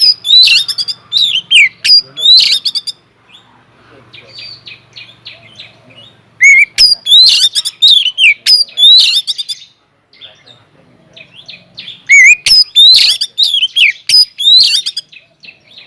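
Oriental magpie-robin (kacer) singing loudly in three bouts of sweeping whistles mixed with rapid scratchy notes, with softer quick chipping in the pauses between bouts.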